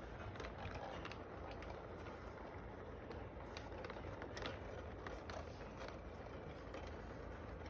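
Model train running along its track: a steady mechanical running noise with irregular clicks as the cars pass over the rail joints.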